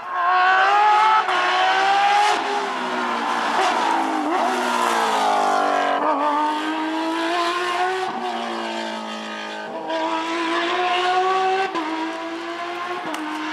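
Porsche flat-six rally car engine at full load, revving hard with its pitch climbing and dropping again and again as it accelerates, shifts gear and lifts between corners. It comes in loud suddenly at the start and fades near the end.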